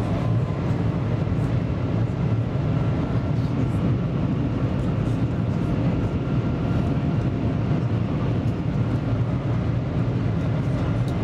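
Steady cabin noise inside a Shanghai maglev train in motion: an even low rumble with a rush of air over it, holding level throughout.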